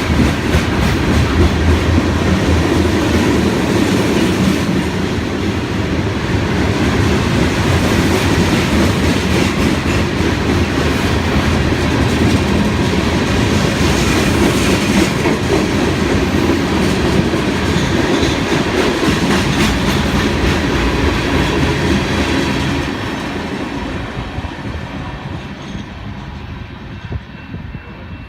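Union Pacific freight train of two-bay covered hopper cars rolling past, a steady rumble with the clickety-clack of wheels over rail joints. It fades away over the last few seconds as the train moves off.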